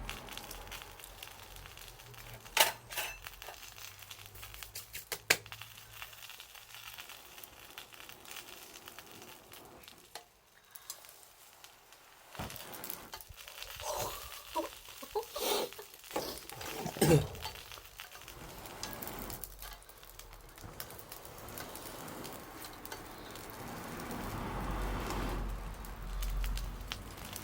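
Wood bonfire burning with a low crackle, with two sharp pops about 2.5 and 5 seconds in and a few short squeaky sounds around the middle.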